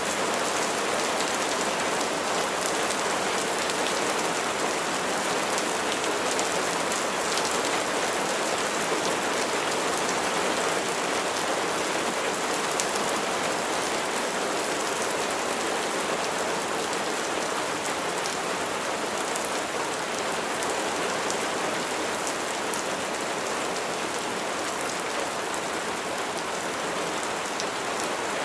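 Steady rain falling, with the patter of individual raindrops on a surface.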